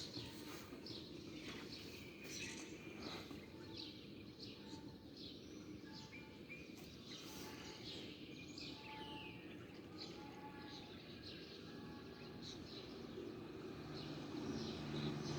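Many small birds chirping in quick, overlapping short calls over a steady low background rumble.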